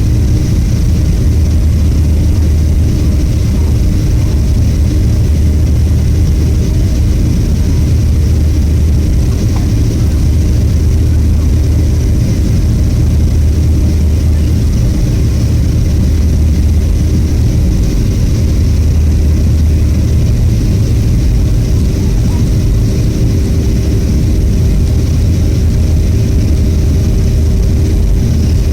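Boeing 737-500 airliner with CFM56 turbofans running steadily in flight after takeoff: a loud, even low rumble with a faint steady hum over it.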